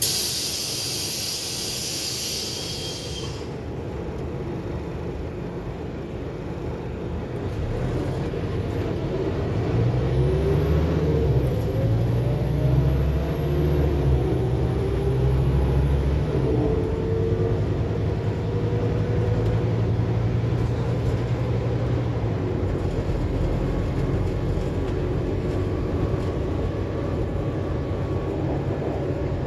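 Scania K280UB4 city bus heard from inside: a short hiss of compressed air, then the diesel engine and drivetrain climbing in pitch as the bus pulls away and gathers speed. After that it settles to a steady run.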